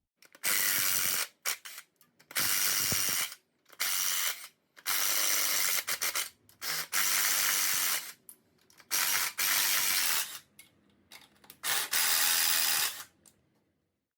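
Pneumatic air tool run in about eight bursts of roughly a second each: a loud air hiss with a spinning-motor whir, stopping and starting while bolts come off a small-block Chevy 305 during teardown.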